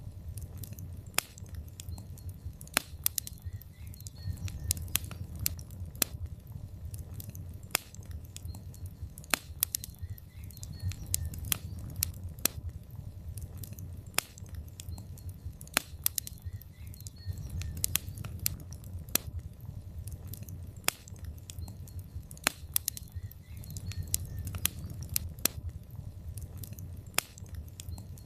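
Wood fire burning in a fireplace: a steady low rumble of flames with irregular sharp crackles and pops from the burning logs, several a second, some louder than others.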